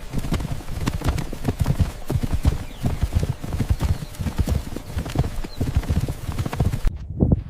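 Hooves of running animals: many quick, irregular hoofbeats overlapping. About seven seconds in the background hiss drops away and the hoofbeats carry on.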